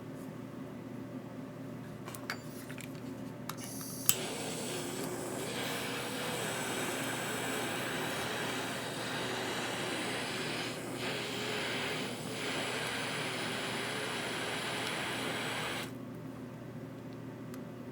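A small electric blower motor switches on with a click about four seconds in. It runs with a steady rushing hiss and a wavering hum for about twelve seconds, then cuts off suddenly.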